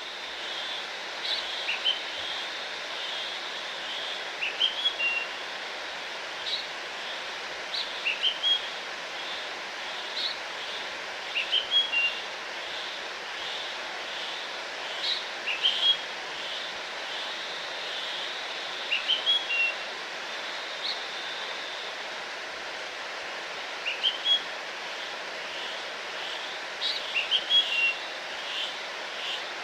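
A songbird repeats a short, high song phrase every three to four seconds over a steady rush of falling water from a waterfall.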